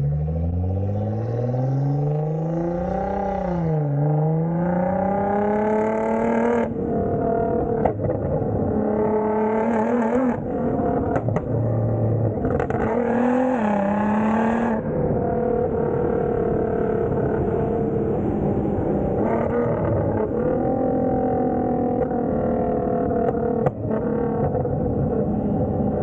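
Straight-piped Nissan GT-R's twin-turbo V6 accelerating, its pitch climbing and dropping back at a few upshifts, then holding a steadier note for the last ten seconds. A few sharp cracks come through along the way.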